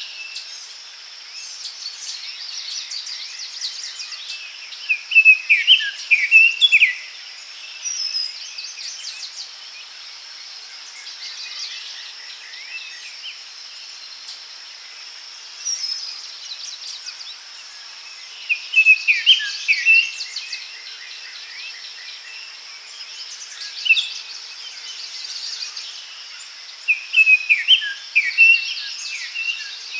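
Songbirds singing in a forest, one bird repeating a short phrase of quick descending notes every several seconds, with other chirps between. A steady high insect buzz runs underneath.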